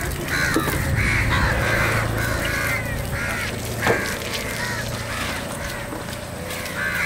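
Birds calling over and over, short harsh calls overlapping about twice a second, with a single sharp knock about four seconds in.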